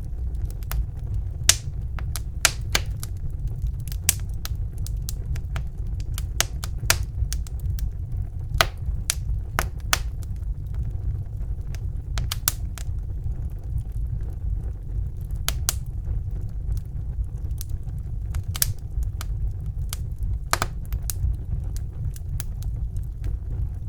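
Wood fire burning in a fireplace: irregular sharp crackles and pops scattered throughout, over a steady low rumble of the flames.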